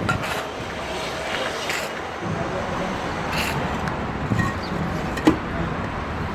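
Steady outdoor street noise, like passing traffic, with a few scattered sharp knocks; the loudest knock comes about five seconds in.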